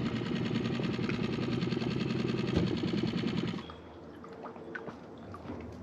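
A small engine running steadily with a fast, even pulsing; it stops abruptly about three and a half seconds in, leaving quieter surroundings with a few faint clicks.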